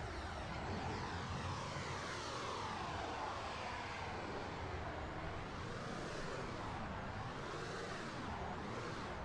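Radio-controlled model F-16 jet flying, its whine sweeping up and down in pitch as it passes back and forth, over a low rumble from strong wind.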